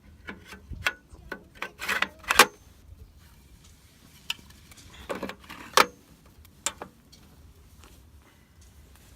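Objects being handled and set down: a run of light clicks and knocks with a couple of short rubbing scrapes about two seconds in, then a few more knocks and clicks around five to seven seconds.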